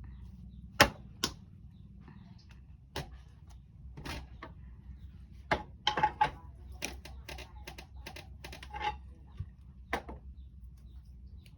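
Irregular sharp knocks and clacks from working clay roof tiles by hand, with a hand-operated tile press and a wooden mallet striking clay into the mould. The two loudest knocks come about a second in, and a quick cluster follows around six seconds, over a low steady hum.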